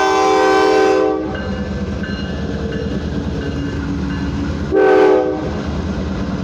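Freight locomotive's multi-chime air horn: a long blast that cuts off about a second in, then one short blast near the five-second mark, over the steady low rumble of the train.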